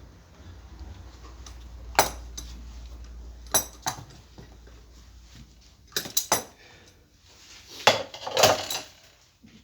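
Metal tools and parts clinking and knocking against each other: several sharp clinks, single or in quick pairs, a second or two apart.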